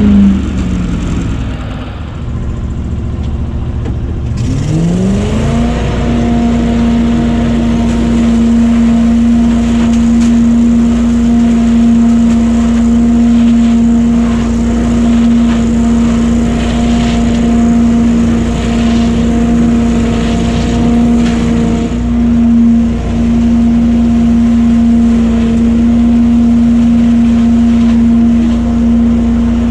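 BillyGoat debris loader's engine and fan dropping off speed just after the start, then revving back up about five seconds in and running steadily at full speed. Intermittent rattles of leaves and debris being sucked through it.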